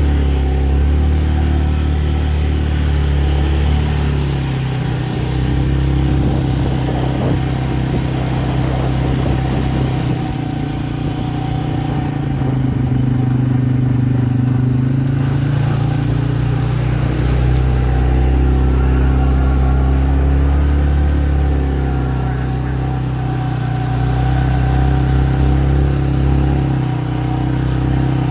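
Motor vehicle engine running steadily, its pitch rising and falling a little as it goes.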